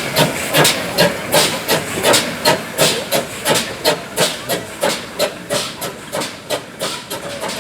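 GWR steam tank locomotive working hard, its exhaust beats chuffing at about three a second, quickening slightly and gradually fading.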